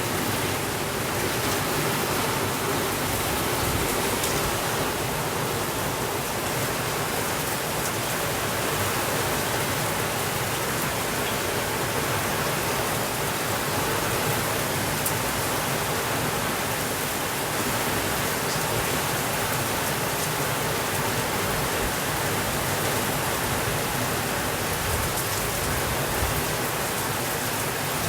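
Steady rainfall: an even, unbroken hiss of rain with no thunder and only a couple of faint ticks.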